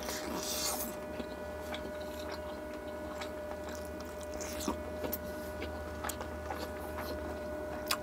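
Close-up chewing and biting of a mouthful of naan and chicken, with wet mouth sounds and small clicks, the bite loudest in the first second. Under it runs a steady electric hum.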